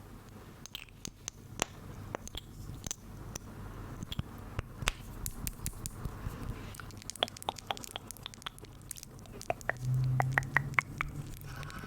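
Close-miked ASMR trigger sounds: a rapid, irregular run of sharp crisp clicks and crackles, like chewing or biting. A brief low hum comes about ten seconds in.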